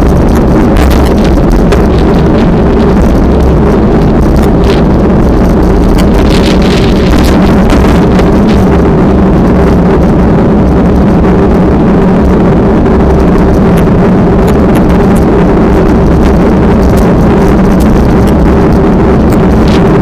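A steady engine drone, loud and unbroken, with wind buffeting the microphone.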